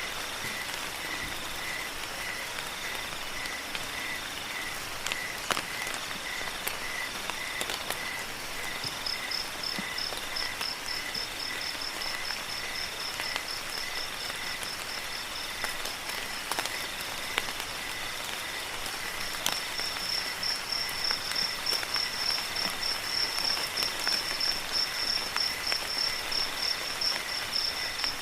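Crickets chirping in regular pulses over a steady hiss of rain. A slow chirp repeats about twice a second for the first several seconds; then a faster, higher-pitched trill comes in and grows louder about two-thirds of the way through.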